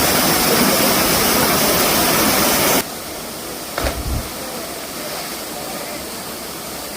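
Rushing water of a waterfall. It is loud at first, then drops suddenly to a quieter rush about three seconds in. A brief low thump follows about a second later.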